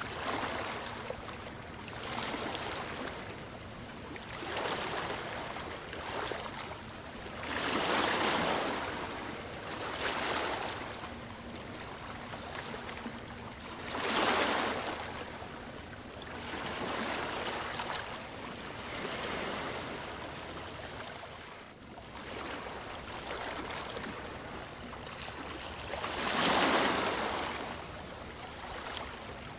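Ocean waves washing ashore: a hiss that swells and falls away every few seconds, with three bigger surges.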